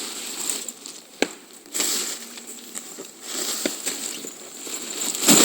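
Rustling with a few sharp clicks and knocks as a pop-up tent is handled, with a louder burst of rustling near the end.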